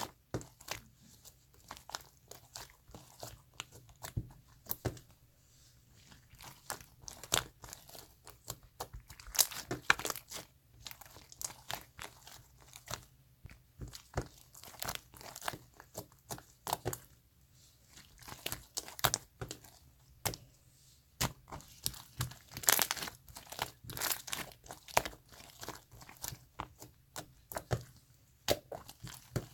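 Marbled slime being squished and stretched by hand, giving dense, irregular sticky pops and crackly clicks.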